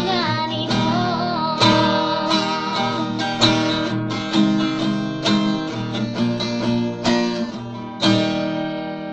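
Acoustic guitar strumming chords, with a woman's singing voice holding a wavering note in the first second or so; the strummed chords then carry on alone and slowly fade.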